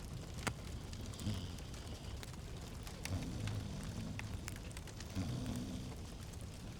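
Fireplace fire crackling: scattered sharp pops and snaps over a steady low rumble and hiss, with one louder pop about half a second in.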